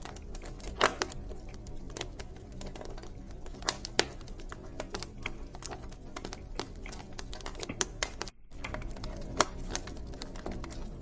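Wood fire in a fireplace crackling: irregular sharp pops and snaps over a low steady rumble. The sound cuts out for a split second about eight seconds in.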